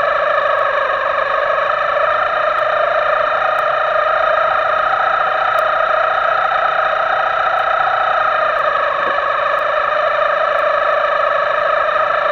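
Small RC boat's electric motor whining steadily at high speed, one held pitch with many overtones, distorted and drifting only slightly.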